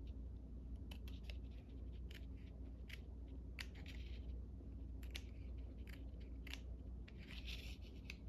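Faint, scattered clicks and short rustles of paper being handled and worked by hand, over a steady low hum.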